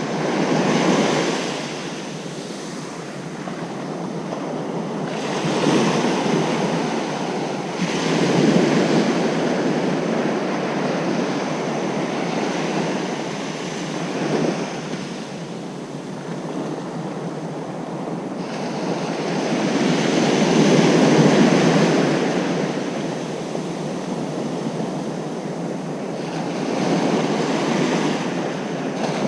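Ocean waves breaking and washing on a beach, the surf swelling and easing every several seconds, with some wind on the microphone.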